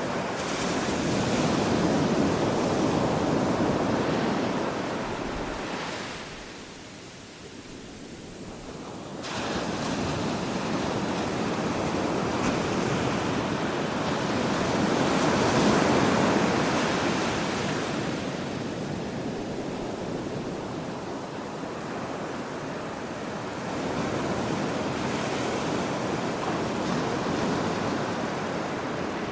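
Ocean waves breaking on a shore, the surf swelling and falling away in slow surges, with a lull of a few seconds about a quarter of the way in.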